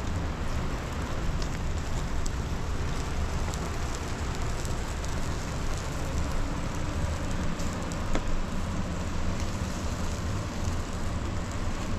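Steady rain falling, with scattered sharp drop ticks over a low rumble.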